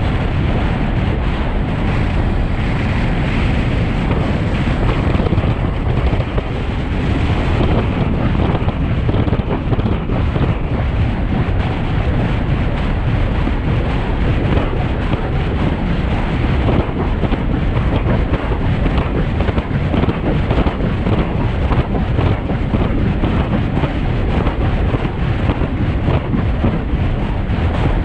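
Loud, steady wind rushing over a bike-mounted camera's microphone as a road bike descends a mountain pass at speed.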